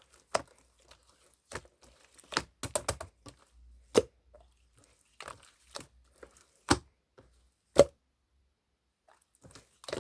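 Irregular sharp taps, clicks and crinkles of small objects being handled by hand, with a quiet pause of about a second and a half near the end.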